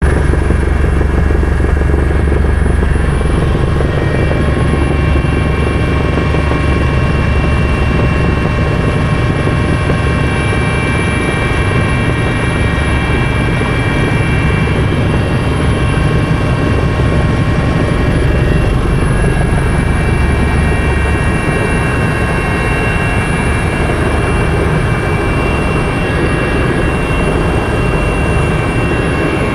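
Helicopter running steadily, with a dense low rotor beat under several high, steady turbine whines.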